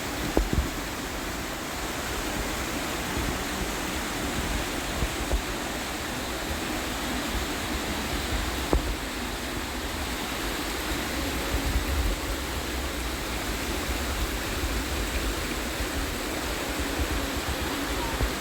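Steady rush of flowing water, with a couple of faint clicks.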